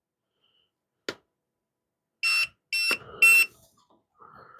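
Yu Xiang F07 RC transmitter beeping three times, high-pitched electronic tones about half a second apart, the third a little longer and loudest, after a single click about a second in.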